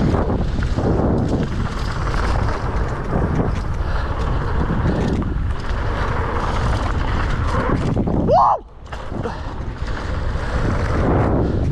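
Strong wind buffeting the microphone as a steady, loud rushing rumble. About eight seconds in, a brief tone rises and falls, and the noise then drops out for a moment.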